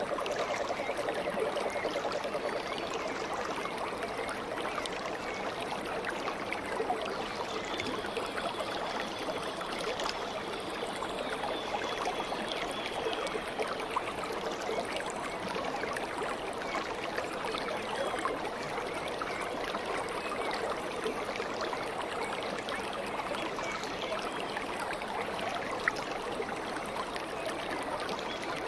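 Stream water babbling and trickling steadily, with a constant patter of small splashes.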